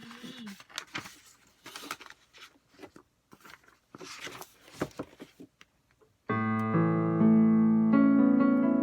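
Faint rustling and small knocks, then about six seconds in a piano keyboard suddenly starts playing slow, held chords that change twice.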